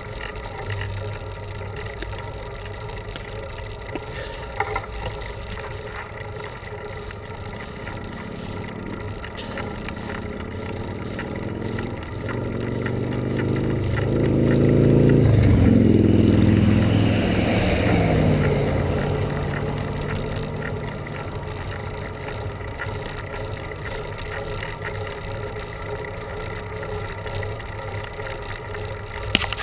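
A motor vehicle approaches and passes a cyclist on the road, growing louder to a peak about halfway through. Its engine pitch drops as it goes by, then it fades away. Under it runs the steady noise of the bicycle ride.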